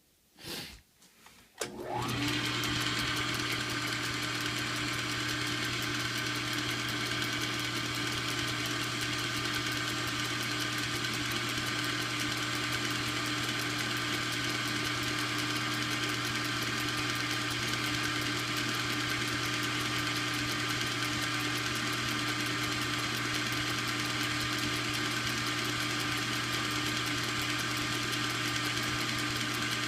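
A few clicks, then a small machine tool's electric motor switches on about two seconds in, spins up and runs steadily with an even hum.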